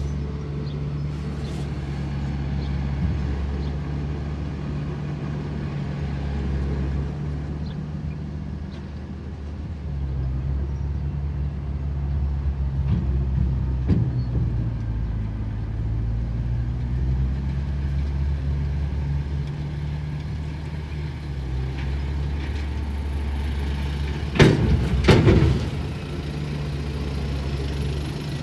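Heavy diesel earthmoving machinery running steadily, with small shifts in engine load, and two loud knocks close together near the end.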